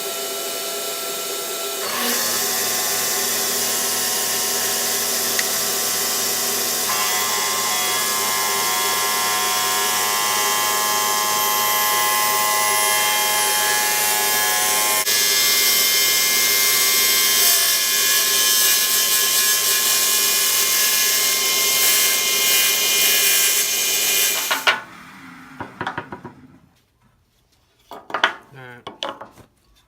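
Ridgid TS3650 table saw running steadily while its blade is raised up through a phenolic resin zero-clearance insert, cutting its own slot; the tone shifts a few times as the blade rises, then the saw shuts off about 25 seconds in.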